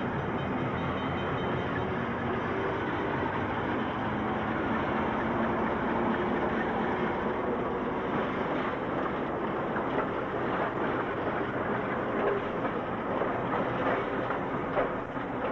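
Freight train rolling along the rails with a steady rumble, its wheels clicking and rattling over rail joints more often in the second half.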